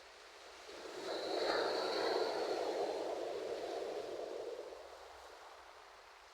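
Ocean wave breaking and washing up the shore: a hiss that swells about a second in, then slowly fades away over a few seconds.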